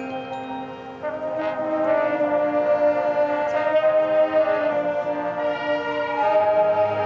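Marching band brass playing sustained chords, swelling louder about a second in, with slow-moving lower brass lines under the held notes.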